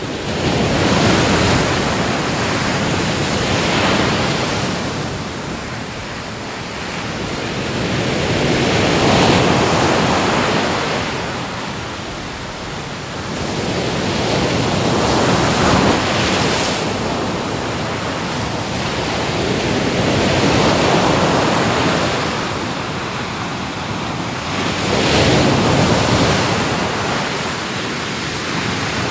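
Ocean waves breaking and washing on a shore. The surf swells and fades about six times, every four to six seconds.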